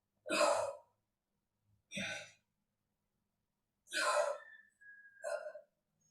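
A woman's forceful, breathy exhales, four of them about a second and a half apart, in time with abdominal crunches.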